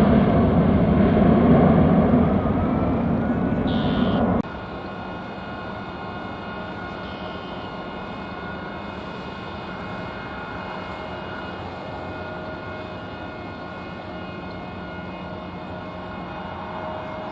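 Airliner engines running loud, with a slight rising whine. About four seconds in, the sound cuts off abruptly to a quieter, steady engine hum with a thin whine.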